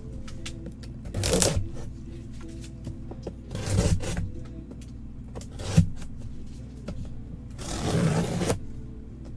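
Packaging of a memorabilia box being handled and opened: rustling and scraping in a few short bursts, with one sharp click in the middle, over a faint steady hum.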